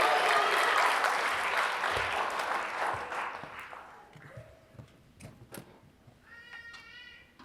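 Audience applause dying away over about four seconds, then a few last scattered claps, then a short high-pitched cry lasting about a second near the end.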